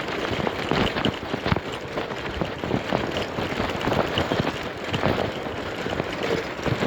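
A bicycle on the move: irregular knocks and rattles, likely from bumps in the road, over steady wind and rolling noise.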